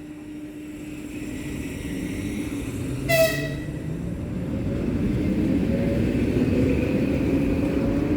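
Electric commuter train gaining speed, its rumble and rising motor whine growing steadily louder, with one short horn toot about three seconds in.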